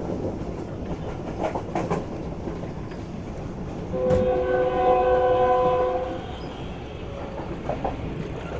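Passenger train running with steady rumble and noise from the wheels and coach; about four seconds in, a train horn sounds one steady blast lasting about two seconds.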